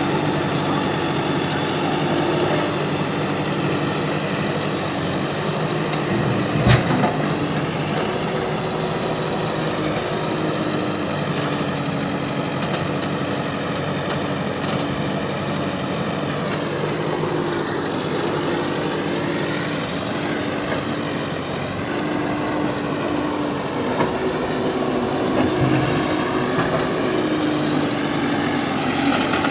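A heavy diesel machine's engine running steadily, its note stepping slightly up and down, with one sharp knock about seven seconds in.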